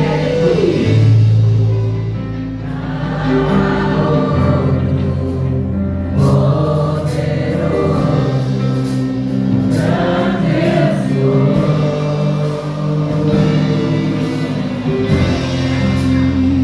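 Gospel worship music: a choir singing over held instrumental notes in the bass.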